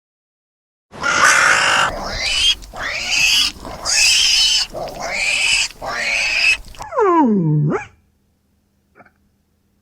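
Pig squealing in a run of about five harsh calls, then a single different call that falls steeply in pitch about seven seconds in.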